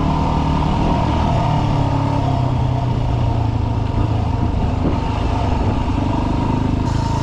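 Dirt bike engine running at a steady, low speed under way, its pitch holding even throughout, with wind and trail noise over it.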